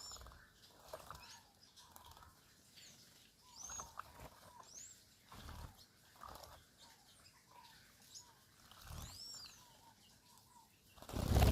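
Small birds bathing: repeated high, arched chirps and lower calls, with short bursts of wing fluttering and splashing every second or two, and a loud flurry of fluttering near the end.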